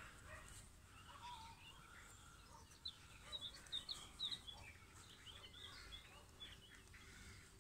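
Faint birdsong: a run of short, high chirps about three to five seconds in, over quiet outdoor background noise.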